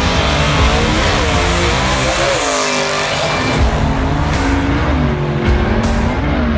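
Car engine revving hard, its pitch falling and rising several times over a steady low rumble.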